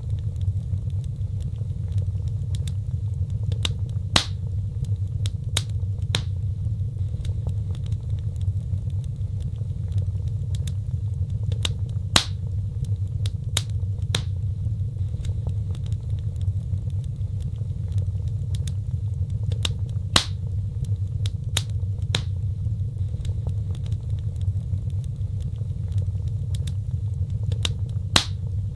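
Fireplace fire crackling: irregular sharp pops and snaps over a steady low rumble, with a handful of louder pops several seconds apart.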